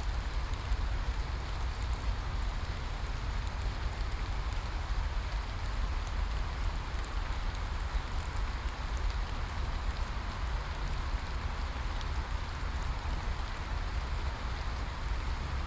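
Steady rain falling on a surface, a continuous hiss with a low rumble and many small drop ticks.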